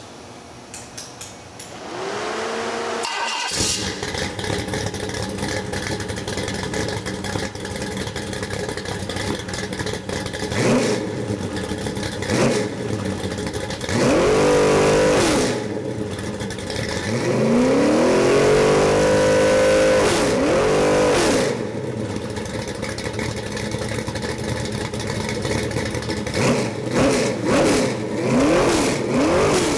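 461-cubic-inch Pontiac stroker V8, built on a 400 Pontiac block and running on an engine test stand, catches about two seconds in and idles. It is then revved: two short blips, two longer held revs in the middle, and a run of quick throttle blips near the end.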